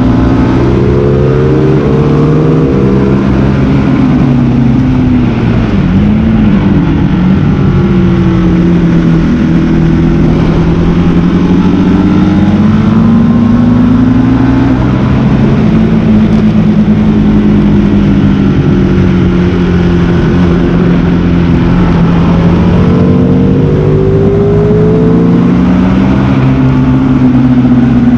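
Sport motorcycle engine at track speed, its pitch repeatedly rising and falling with throttle and gear changes, over steady wind rush.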